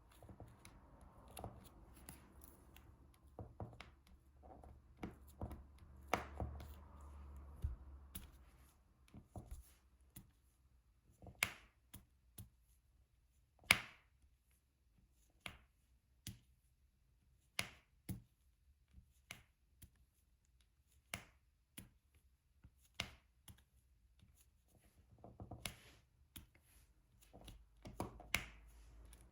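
Diamond painting pen tapping resin drills onto the sticky canvas: sharp, separate clicks, roughly one a second, with soft rustling of hands and tray early on and again near the end.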